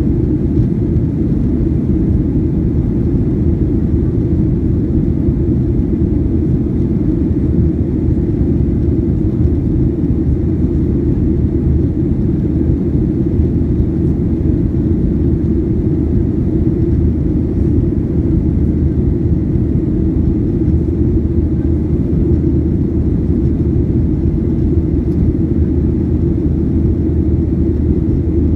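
Steady low rumble of a Boeing 737-800 airliner's engines and airflow, heard from inside the passenger cabin.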